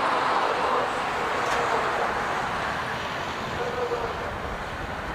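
Jet airliner engine noise, a broad rushing sound that slowly fades.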